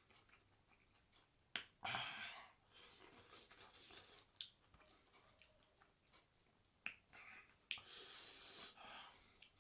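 Close-miked eating sounds: chewing with small wet clicks, and two longer hissy bursts, one about two seconds in and a louder one near the end.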